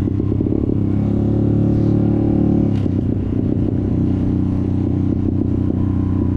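Off-road motorcycle engine running under throttle: the revs build over the first couple of seconds, then drop back sharply at about three seconds with a short click, and the engine runs on steadily.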